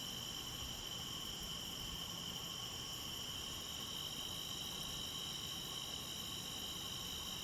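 A steady chorus of crickets: a continuous high trill that holds unchanged without a break.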